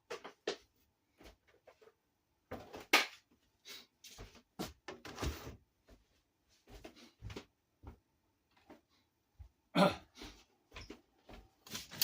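Scattered light knocks, clicks and short rustling scrapes of kitchen utensils and cookware being handled, irregular and with quiet gaps between them.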